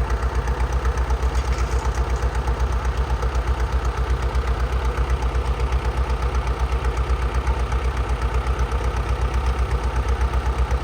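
Large diesel engine running slowly and steadily, with an even, rapid pulsing beat.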